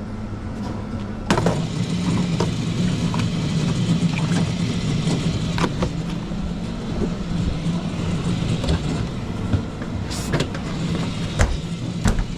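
Espresso machine pump running steadily with a low hum as a shot is pulled, starting about a second in. Sharp knocks and clicks of cups and metal parts being handled come over it.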